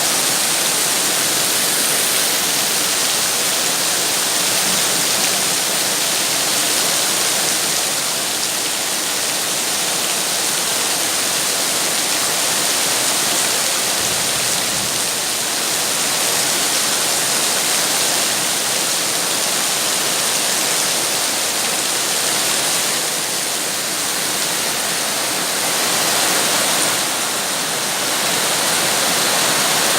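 Steady heavy rain, a dense even hiss of falling water with no single drops or thunder standing out, swelling and easing slightly a few times.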